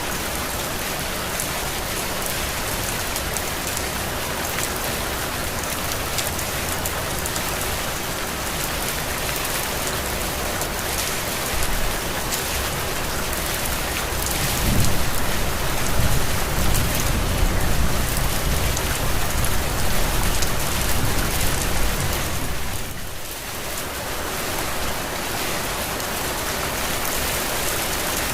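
Steady heavy rain falling as a dense, even hiss. About halfway through, a low rumble swells underneath for several seconds, then fades.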